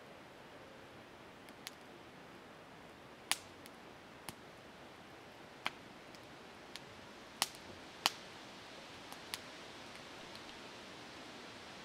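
Wood campfire crackling: sharp, irregular pops, a few louder than the rest, over a faint steady hiss.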